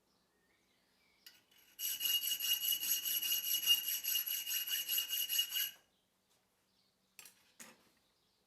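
Rapid back-and-forth rasping strokes of a hand file on steel, about four or five a second for some four seconds, with a steady ringing tone over them, then two short knocks near the end.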